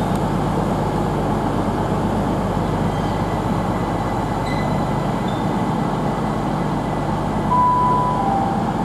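Great Western Railway Class 800 train pulling out and running along the line: a steady rumble with a low hum. Near the end come a short high tone and then a slightly lower one.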